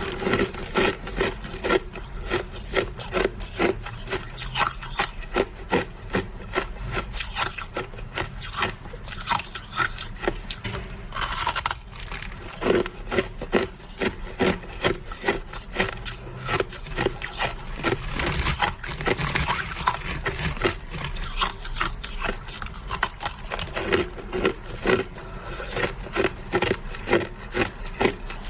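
Someone chewing hard, crunchy ice, with rapid crunches coming a few times a second without a break.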